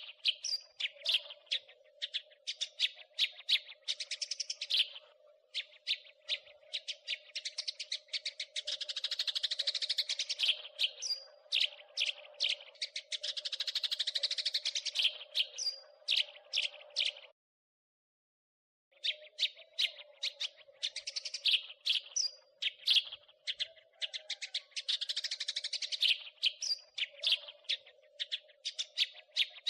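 House sparrows chattering: dense runs of sharp, rapid chirps, over a steady low hum. The sound cuts to silence for about a second and a half a little past the middle, then resumes.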